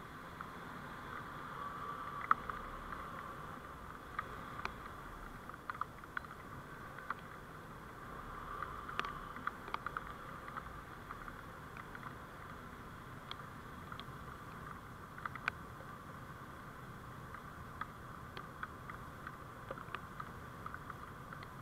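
Vehicle road noise picked up by a dashcam microphone while driving: a steady hum with frequent small sharp clicks and rattles.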